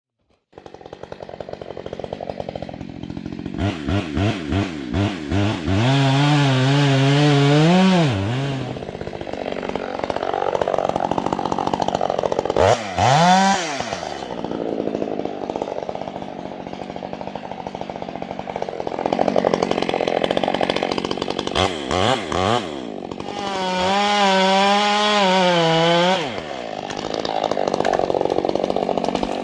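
Two-stroke chainsaw running while felling a tree: a few quick blips of the throttle, then several long revs, with the saw running steadily between them.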